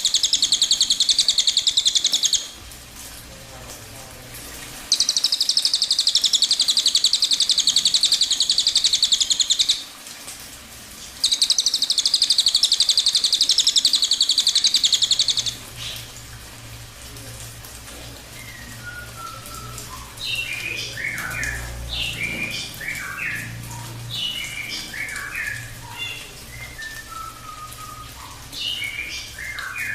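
Cililin bird's dense, rapid high trilling in three long bursts of about four to five seconds each, then softer scattered chirps and short whistles over the second half. A faint steady low hum lies underneath.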